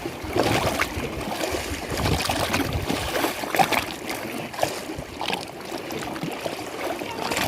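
Lake water lapping and sloshing in a steady wash broken by small, irregular splashes.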